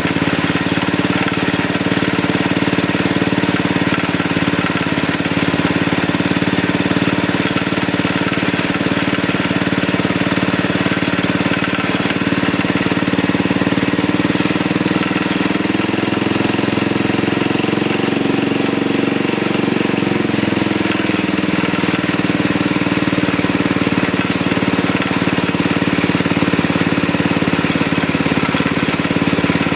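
A Sears ST10 garden tractor's freshly rebuilt small single-cylinder engine running steadily in its break-in period. Its speed rises and then drops back about halfway through.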